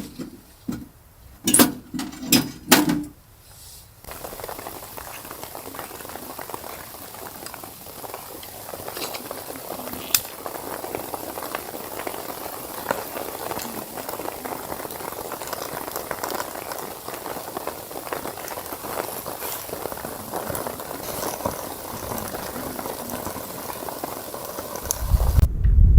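A few sharp knocks, then liquid bubbling steadily at the boil in a pot, with fine crackles through it; a loud low rumble starts near the end.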